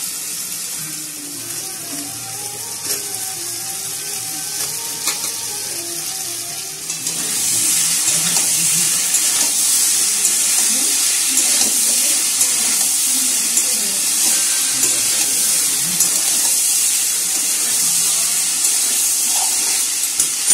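Soya chunks sizzling in a metal kadai of spiced masala that has released its oil, stirred with a metal spatula; the frying hiss gets louder about seven seconds in, and the spatula clicks against the pan a few times.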